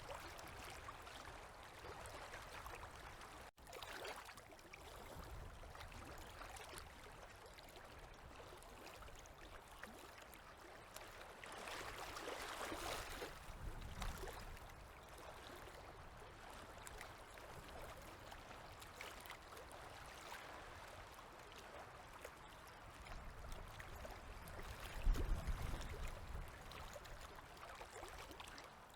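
Gentle river waves lapping and trickling at the water's edge, swelling into a louder wash about halfway through. There is a low rumble near the end.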